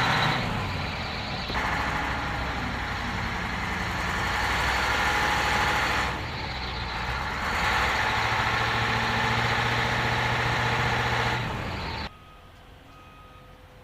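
Heavy snowplow truck engine running under a loud, steady rushing noise of the plowing. The sound jumps abruptly in level several times, then drops to a faint background near the end.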